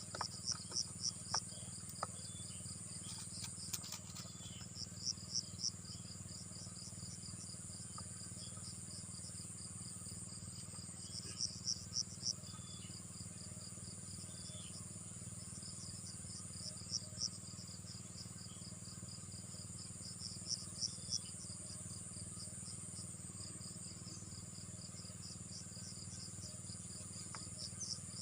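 Insects calling: a steady high-pitched drone, with chirps in quick groups of four or five pulses every few seconds. A low steady hum runs beneath.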